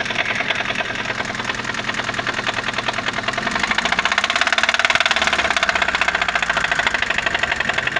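Kia Picanto engine running with a fast, regular knocking from inside the engine, louder from about halfway through. The knock is put down to a worn connecting-rod bearing (rod knock).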